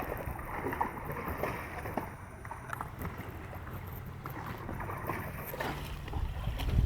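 River water splashing and lapping, with wind rumbling on the microphone; the rumble grows louder near the end.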